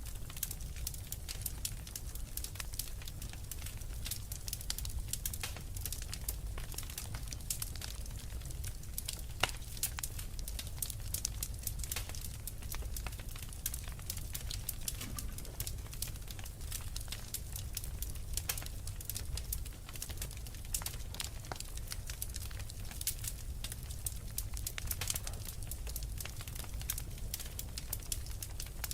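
Fire crackling steadily: a dense run of small sharp crackles and pops over a low steady rumble, with one sharper pop about nine seconds in.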